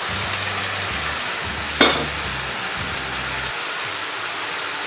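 Minced beef and vegetables sizzling in a very hot wok while being stir-fried, a steady frying hiss with one sharp knock about two seconds in.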